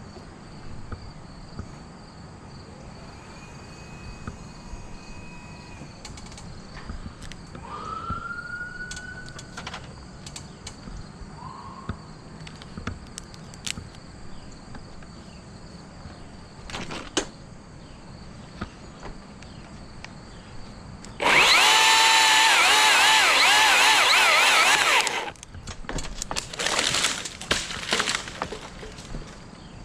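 Power saw cutting into dead tree wood: a loud burst with a wavering whine, lasting about four seconds from roughly two-thirds of the way in, followed by several shorter bursts of cutting.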